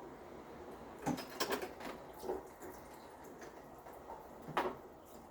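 Light clicks and knocks of a segmented anode rod being fed down through the port into a water heater tank, its links tapping metal: a few scattered taps about a second in and a sharper knock near the end.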